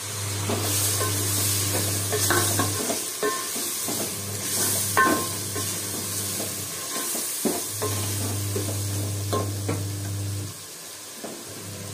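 Chopped tomatoes sizzling in hot oil and masala in an aluminium pot as they are stirred with a wooden spoon, with scattered knocks of the spoon and a few ringing metal clinks, the loudest about five seconds in. A low hum comes and goes underneath.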